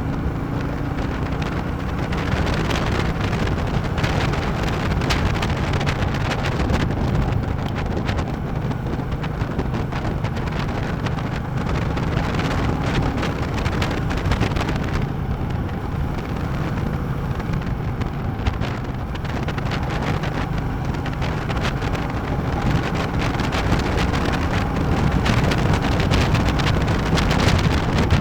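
Royal Enfield Classic 350's single-cylinder engine running steadily while riding, with wind rushing and buffeting over the microphone.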